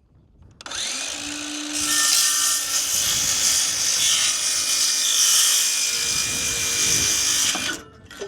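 Electric power saw cutting through a wooden board. The motor starts up just under a second in, the cut runs loud and steady for about six seconds, then stops sharply near the end.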